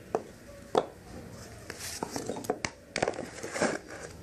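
Handling noise: a run of sharp clicks and knocks mixed with short stretches of rustling.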